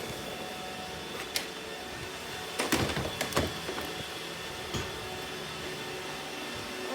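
Robot vacuum running with a steady motor hum, with a few sharp clicks and knocks: one about a second in, a cluster near the middle, and one more shortly after.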